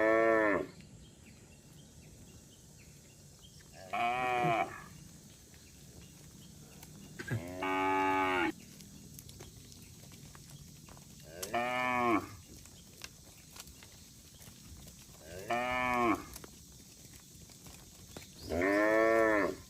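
Cattle mooing: six separate moos, one about every four seconds, each about a second long and rising then falling in pitch.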